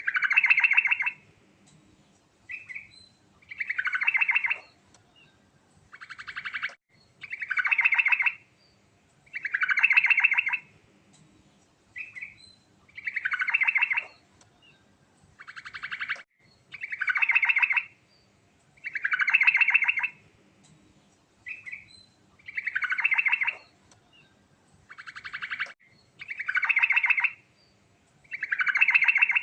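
Yellow-vented bulbul (trucukan) singing without pause: a bright, rapidly pulsing phrase about a second long comes roughly every three seconds, with short softer notes between the phrases.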